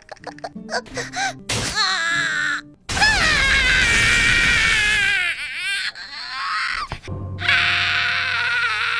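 A female anime character's voice making exaggerated comic noises: a loud, long, wavering high-pitched wail that breaks off, then starts again near the end. A few short musical notes play at the start.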